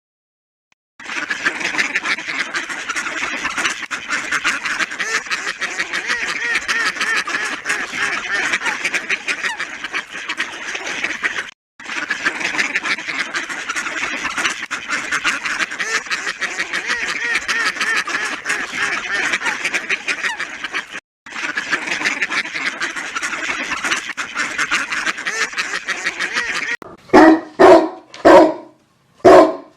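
A large flock of domestic waterfowl calling in a dense, continuous chorus of quacks and honks, with two brief breaks where the clip is cut. Near the end a dog barks several times, loudly.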